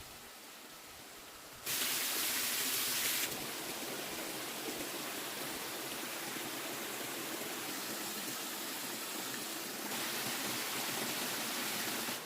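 Steady rushing noise of running water, stepping abruptly louder and softer a few times.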